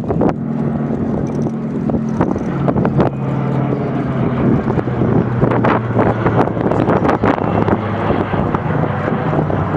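Four-engined B-29 Superfortress's Wright R-3350 radial piston engines droning steadily in flight, the drone dropping in pitch about two to three seconds in, with wind buffeting the microphone.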